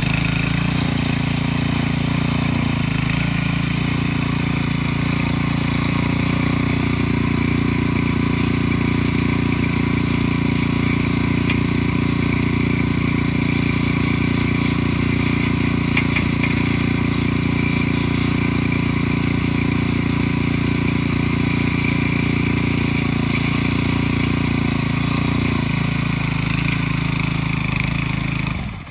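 Harbor Freight Predator small gasoline engine on a Troy-Bilt Pony rototiller, running at a steady speed.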